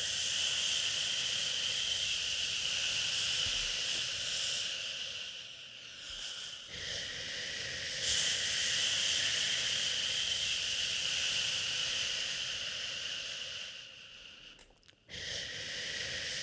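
A person shushing a crying baby to sleep: long, drawn-out 'shhh' sounds lasting several seconds each, with a brief break about six seconds in and a deeper pause shortly before the end, when a new shush begins.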